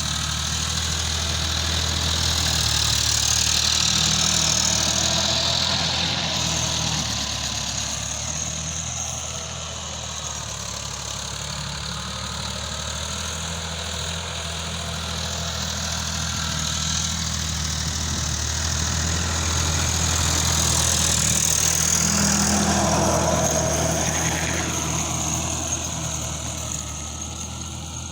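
Sonalika RX 50 tractor's diesel engine running steadily, its sound growing louder and easing off twice.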